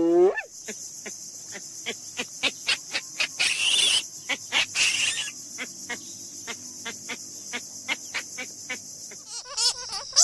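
A steady high-pitched insect chorus, cricket-like, with a run of sharp irregular clicks and two short rasping calls a few seconds in. Near the end a different wavering animal call begins.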